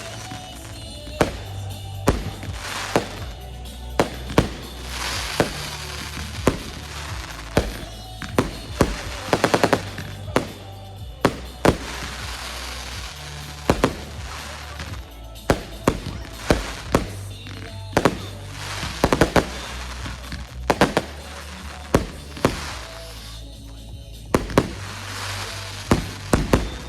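Fireworks going off in many sharp, irregularly spaced bangs, some in quick clusters, over music with a steady bass line.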